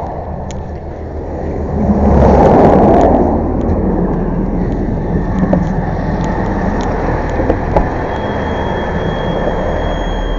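Heavy truck engine running steadily, with a louder rushing swell about two seconds in that lasts around a second. A thin steady high whine joins near the end.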